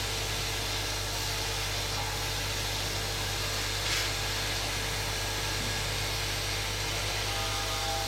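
Hot air rework station with a straight-air nozzle blowing steadily, preheating circuit-board solder pads at about 260 °C, with a low hum under it. A single faint click comes about four seconds in.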